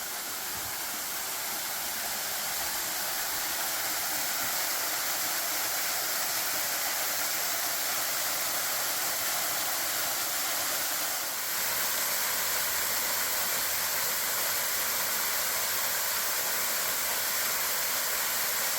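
Waterfall in full flow, a drop falls cascading into a plunge pool: a steady rush of falling water. It dips briefly about eleven seconds in.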